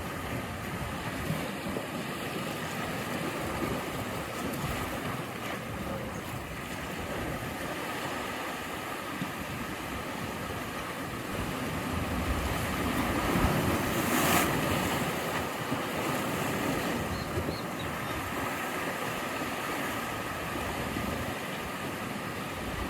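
Ocean surf: a steady wash of waves, with one wave swelling louder about fourteen seconds in.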